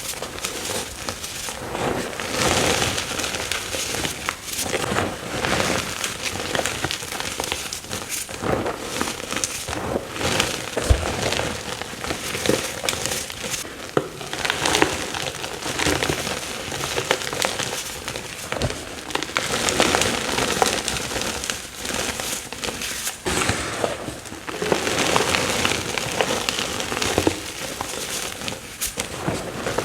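Fresh chalk blocks being crushed and crumbled, a continuous dense crunching and crackling made of many small snaps.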